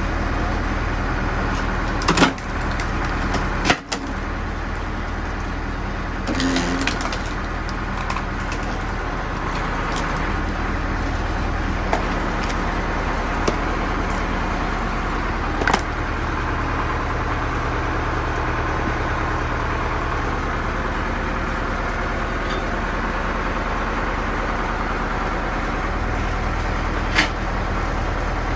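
Tractor engine running steadily while it powers a hydraulic firewood machine, with a few sharp knocks from the machine at intervals.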